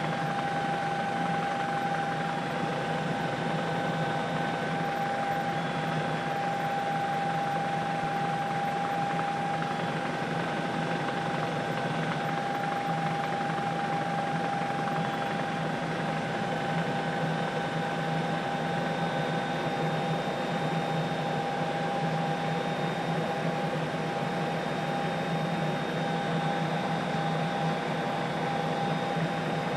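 Steady helicopter noise heard from inside the cabin: rotor and turbine running at constant power, an even rushing noise with a steady whine over it.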